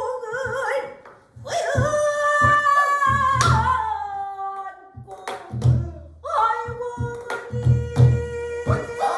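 Pansori singing with buk barrel-drum accompaniment: a solo voice holds long, wavering notes and glides while the drum gives low thumps on the head and sharp stick clicks on the wooden rim. There is a brief pause in the voice a little after a second in.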